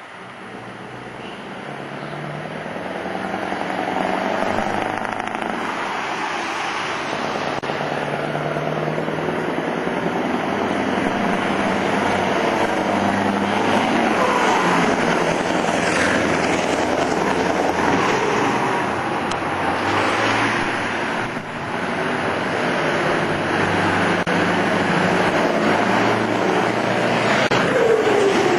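Two Scania V8 trucks' engines approaching and driving past, the sound building over the first few seconds and then staying loud. Near the end the pitch falls as a truck goes by.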